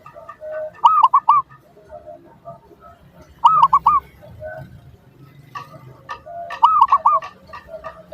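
Zebra dove (perkutut) singing its cooing song three times, each phrase a short low note and then three quick rolling coos, about three seconds apart. It is played as a lure call to draw a response from other perkutut. A faint rapid ticking, about five a second, runs behind it.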